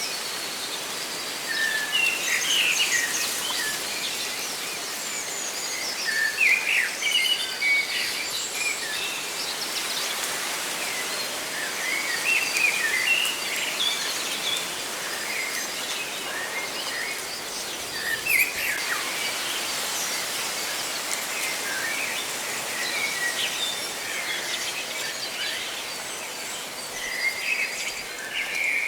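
Several birds chirping and calling in short, scattered phrases, over a steady rustle of leaves.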